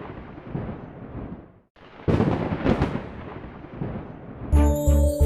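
Thunder sound effect: a sharp crack that decays into a rumble, cut off abruptly and played again. Background music with a steady beat starts near the end.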